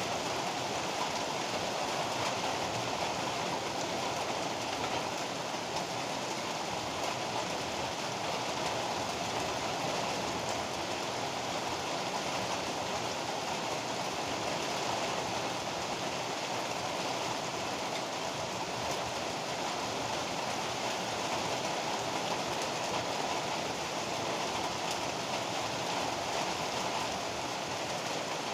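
Heavy rain falling steadily as a dense, even hiss, with no thunder or other sudden sounds.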